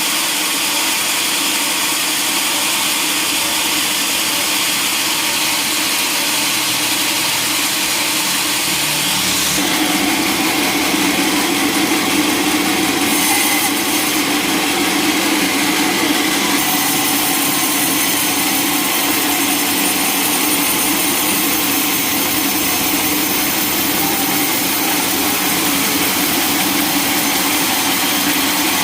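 Sawmill machinery running steadily, with a change in its sound about a third of the way in.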